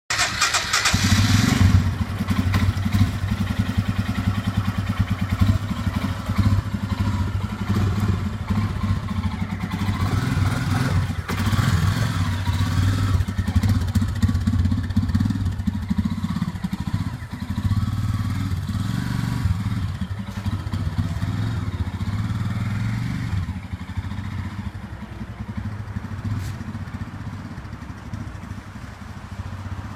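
An engine running continuously with a steady low hum, growing gradually quieter over the last several seconds, with a brief burst of loud noise at the very start.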